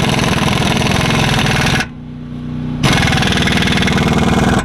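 Impact wrench hammering in two bursts as it tightens a tie rod nut. There is a pause of about a second between the bursts, during which a steady low hum is heard.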